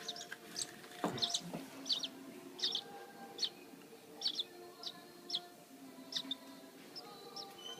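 Young bird chirping over and over, a short high chirp roughly every half second to a second, the begging calls of a baby bird being hand-fed. A soft thump about a second in.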